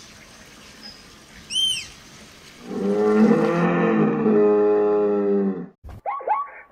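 Animal calls. A brief high arching whistle comes about one and a half seconds in, then a long, loud, low call with many overtones lasts about three seconds and ends abruptly. Near the end a quick series of short rising-and-falling chirps begins.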